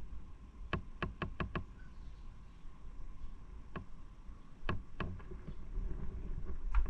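A quick run of five sharp knocks about a second in, then a few more scattered ones later, over a faint low rumble.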